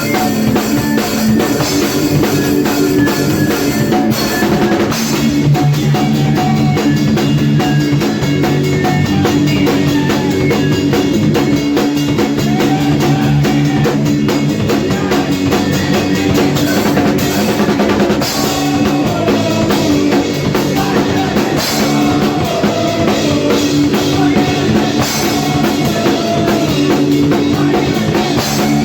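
Hardcore punk band playing in an 80s style: a loud, busy drum kit with bass drum and snare hits over sustained guitar and bass notes, continuous throughout.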